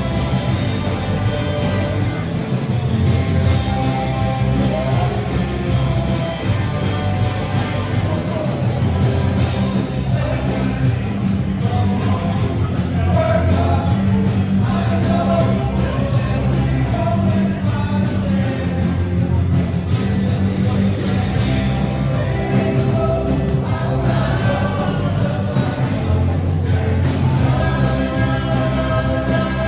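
Rock band playing live, with a singer's voice over guitar, bass and drums.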